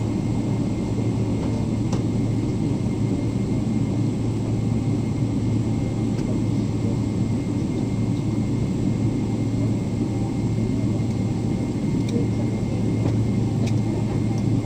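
Steady cabin noise inside a Boeing 777-300ER: an even rumble and hum from the engines and air system, with a few faint ticks.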